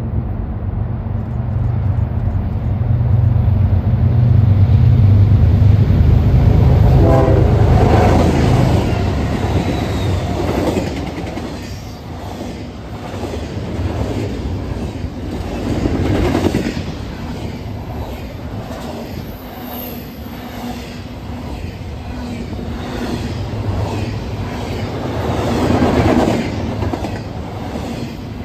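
Diesel locomotives of a freight train passing close by, their engines' steady low hum loudest a few seconds in, followed by double-stack container well cars rolling past with a rhythmic clatter of wheels on the rails that swells and fades.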